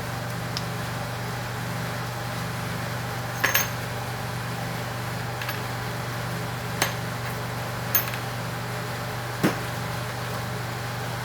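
Small metal parts being handled: a handful of short, sharp clicks and clinks, two close together about a third of the way in and the rest spaced a second or more apart, over a steady low hum.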